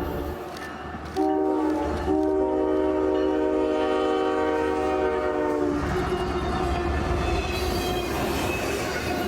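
Freight locomotive's multi-note air horn: a short blast about a second in, then a long blast of about four seconds. After that comes the steady rumble and clatter of the train passing.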